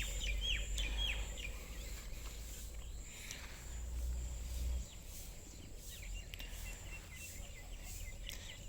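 Small bird calling outdoors: runs of short, quick falling chirps near the start and again near the end, over a steady high insect drone. A low rumble underneath stops about five seconds in.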